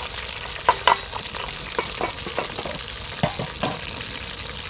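Fish frying in hot oil in a pan, a steady sizzle, with a few sharp clicks against the pan about a second in and again a little past three seconds.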